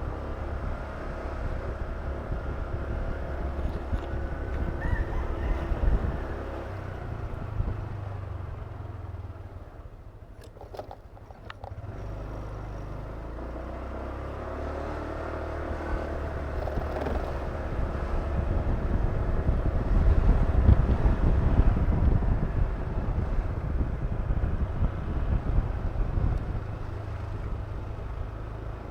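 Honda Click 125 scooter's single-cylinder engine running while riding, with low wind rumble. It drops away briefly about a third of the way through, then picks up again and grows louder.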